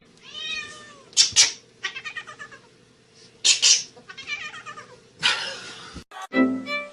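Cat meowing and yowling: a drawn-out rising-and-falling meow, then several loud harsh cries with runs of quick short calls between them. It cuts off about six seconds in.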